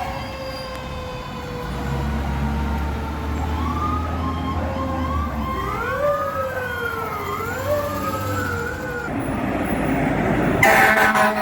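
Fire engine sirens: a slowly falling wail, like a mechanical siren winding down, joined partway through by a second siren sweeping up and down, over a low truck engine rumble. A loud blast near the end.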